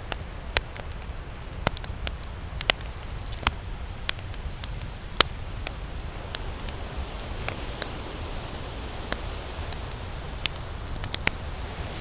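Wood campfire crackling, with irregular sharp pops and snaps over a steady low rumble of surf.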